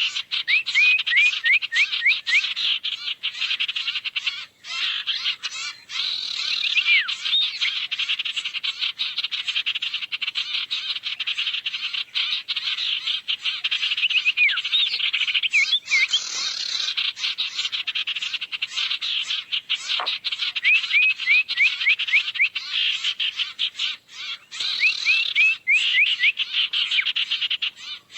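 Bird-lure recording of sirtu calls: a dense, rapid buzzing trill with runs of short down-slurred chirps repeated every few seconds.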